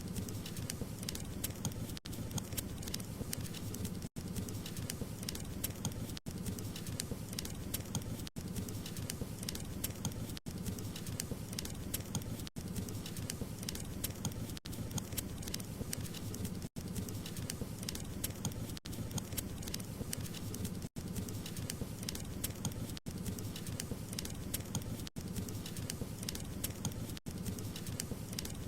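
Wood fire crackling steadily, with many small pops over a low rumble of flame. The sound cuts out for an instant roughly every two seconds.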